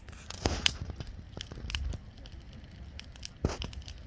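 Bonfire wood crackling, with scattered sharp pops and snaps; the loudest come about half a second in and again near the end, over a low rumble.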